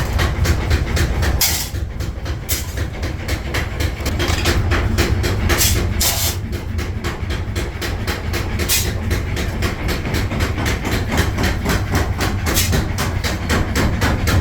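Metal-forging machinery running with a fast, steady clatter of about five strikes a second over a deep hum.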